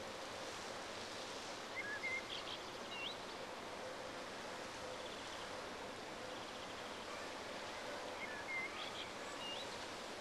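Steady outdoor background hiss with a small bird singing the same short chirping phrase twice, about six seconds apart.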